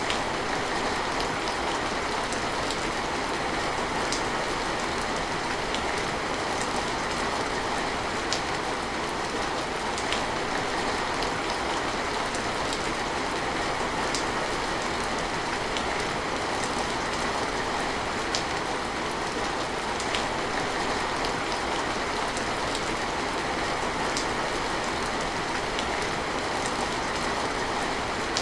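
Steady rain, an even hiss with scattered sharper drips and splashes of single drops.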